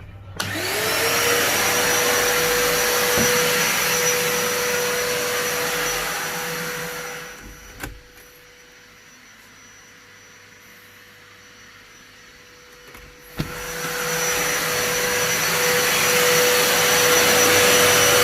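A 1000 W vacuum cleaner starts with a rising whine and runs loud and steady. About seven seconds in, with a click, its sound drops to a faint, muffled whine, as if shut behind a door. Around thirteen seconds a knock comes and it is loud again, as if the door has been opened.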